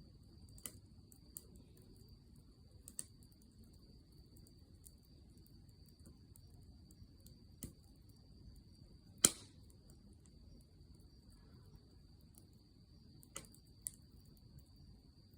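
Wood campfire crackling: scattered sharp pops and ticks from the burning firewood over a low rumble of the flames, with one much louder pop about nine seconds in.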